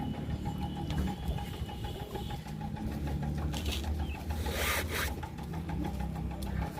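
Eating sounds of a person chewing and handling food, with one brief, louder noisy burst about four and a half seconds in.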